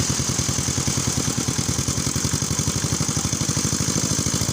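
Small engine running steadily at an even speed, with a fast, regular chug of about ten beats a second.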